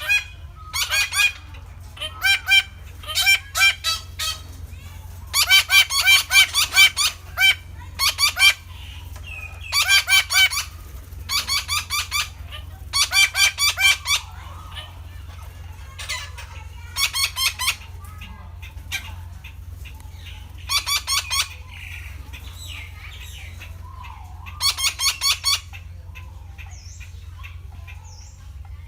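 Red-breasted parakeet calling in repeated bouts of rapid, harsh, high-pitched notes, each bout about a second long, with short pauses between them.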